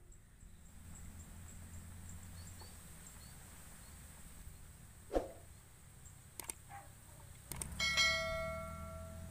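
Subscribe-button animation sound effect: a quick swish about five seconds in, a few sharp clicks, then a bell ding that keeps ringing near the end, over a faint low outdoor rumble.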